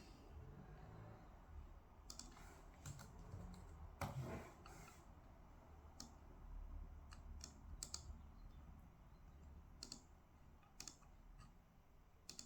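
Faint, irregular clicks and taps of desk work, such as typing on a computer keyboard, with a louder brief rustle about four seconds in.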